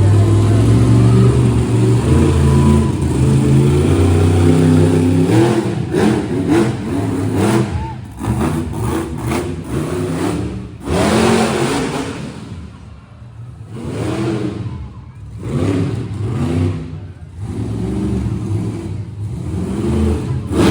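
Monster truck engine running loud and steady, then revving in repeated bursts that rise and fall for the rest of the stretch.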